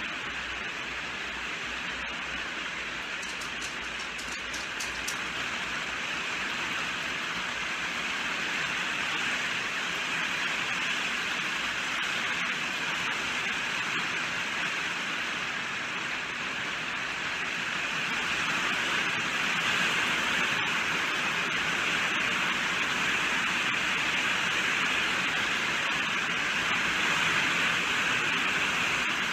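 Steady rainfall, an even hiss of many drops, growing gradually a little louder as it goes.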